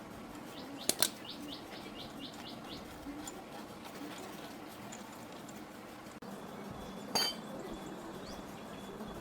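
Sharp clicks or knocks: a pair about a second in and one more near the end, with a quick run of short, faint high chirps right after the first pair.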